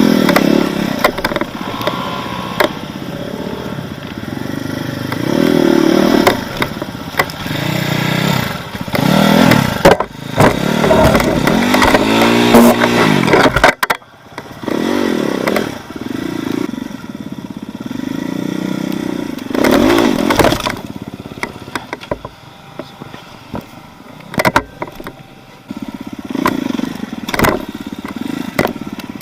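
Off-road vehicle engine revving up and down again and again under load over rough ground, with knocks and rattles from the vehicle jolting; the revs rise and fall most sharply about ten to thirteen seconds in.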